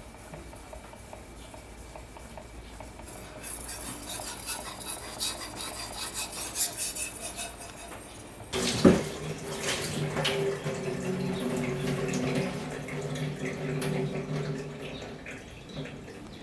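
Steel knife blade scraping against a whetstone in a series of strokes, then a sharp knock and several seconds of tap water running.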